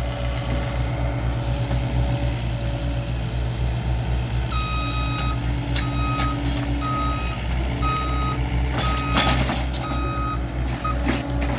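Engine of an earthmoving machine running steadily while it backfills, with its reversing alarm beeping in an even series starting about a third of the way in and stopping near the end.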